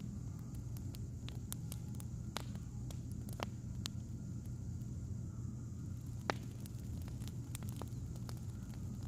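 Firewood crackling: irregular sharp pops and snaps, one louder pop about six seconds in, over a steady low rumble.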